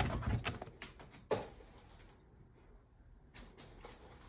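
Cardstock and paper-crafting tools being handled on a desk: a few light clicks at the start, one sharp tap about a second and a half in, then faint scattered clicks.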